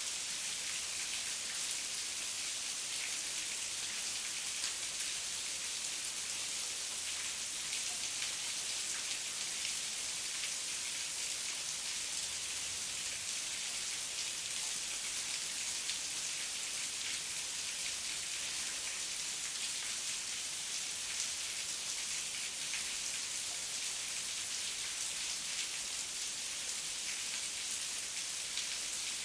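Steady heavy rain, a dense even hiss of many drops landing.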